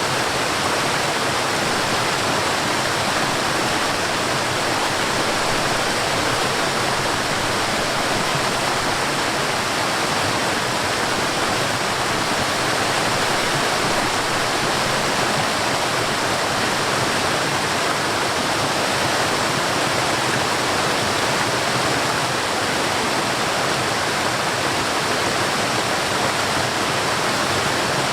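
Forest waterfall: water falling and rushing in a steady, unbroken roar of noise.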